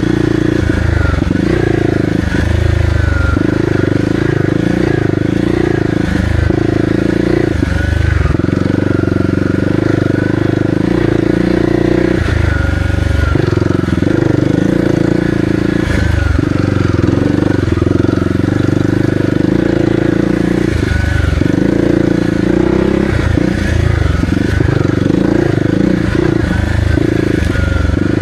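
Kawasaki KLX300R's single-cylinder four-stroke engine running under load while riding, its pitch rising and falling with the throttle.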